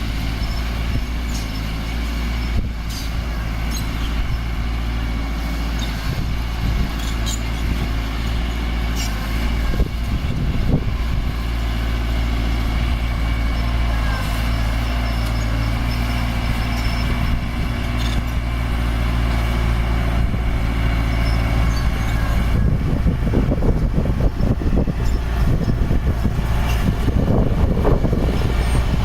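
Diesel engine of heavy earthmoving machinery running steadily, with a few sharp clanks, and working harder and rougher over the last several seconds.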